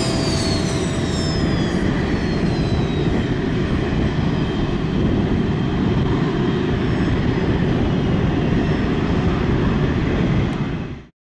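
Jet aircraft roaring overhead, a steady loud rush with a high whine that falls in pitch over the first few seconds as it passes. The sound cuts off suddenly near the end.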